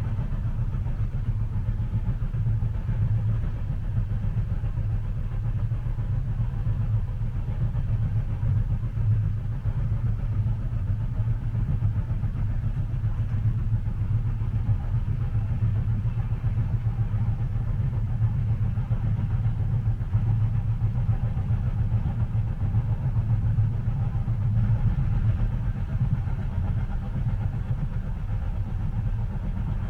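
Steady low rumble of a train running, heard from inside a passenger car: an even, unbroken drone with no distinct track clicks.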